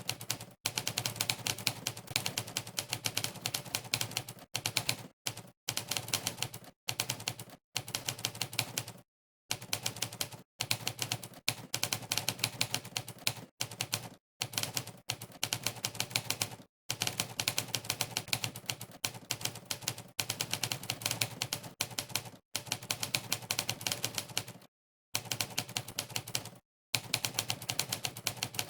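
Typewriter keystroke sound effect from the Monkeytype typing test, one sampled clack per key press, in fast runs broken by short silent pauses every second or two.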